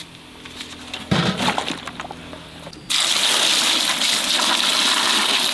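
A few light clattering knocks, then about three seconds in a stream of water suddenly starts gushing and runs on steadily.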